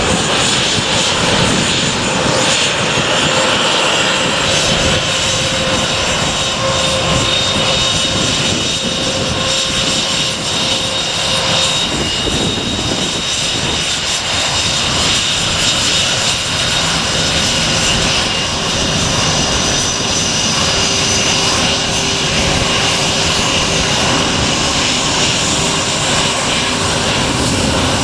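Airliner engines running steadily at close range, with a high whine over a broad, even engine noise.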